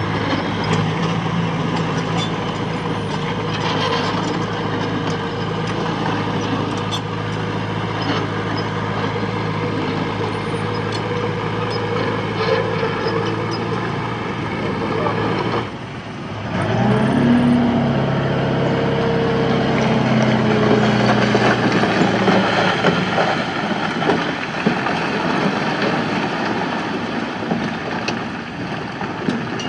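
Diesel engine of heavy earthmoving machinery running steadily. About sixteen seconds in, the sound briefly drops away, then the engine revs up and keeps working at higher speed.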